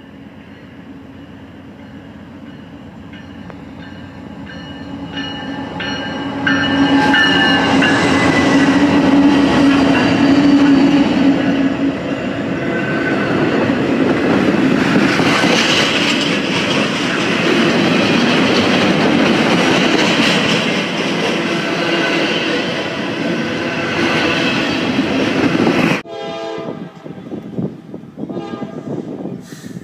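Train approaching and passing close by, its locomotive horn sounding as it comes near, then loud, steady wheel-and-rail noise from the passing cars. The sound builds over the first seven seconds and cuts off suddenly about 26 seconds in.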